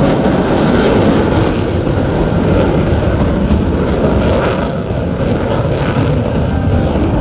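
Loud, steady jet engine noise from Blue Angels F/A-18 Super Hornet fighter jets flying the display.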